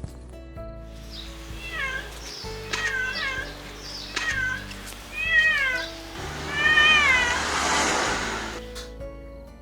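Kitten meowing, about half a dozen short high calls in a row, over soft background music. A rushing hiss rises under the last calls.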